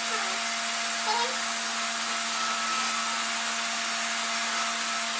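RevAir reverse hair dryer running steadily, its suction wand giving a constant rush of air over a steady hum.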